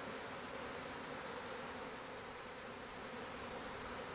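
Steady, continuous buzzing of a honeybee colony disturbed while its comb is being cut out and moved into a nuc box.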